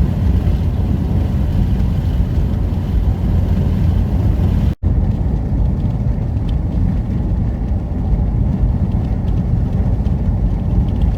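Steady rumble of a car being driven, road and engine noise heavy in the lows. It breaks off for an instant about five seconds in, then resumes.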